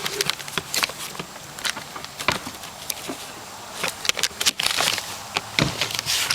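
Irregular clicks, knocks and rustles of footsteps and handling noise, over a faint steady low hum.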